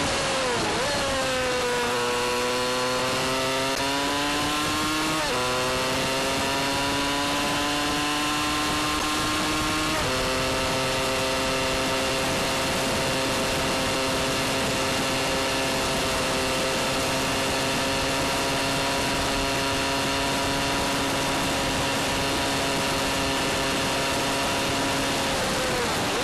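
Yamaha XT125's single-cylinder four-stroke engine running under way, its pitch dipping, climbing and stepping abruptly twice in the first ten seconds, then holding a steady note while cruising before falling near the end. A steady rush of wind and road noise runs underneath.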